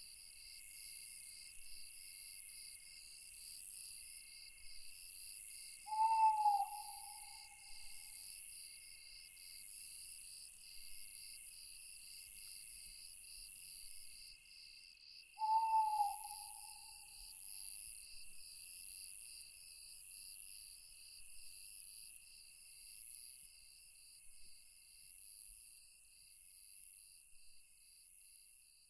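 Night forest ambience: insects trilling steadily in fast pulsing chirps, and an owl giving a single short hoot about six seconds in and another about ten seconds later.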